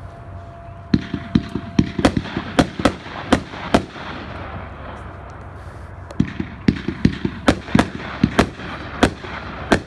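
500-gram consumer fireworks cake (Winda's Atomic Fireball) firing: a rapid volley of sharp bangs about a second in, a short lull, then a second volley from about six seconds on.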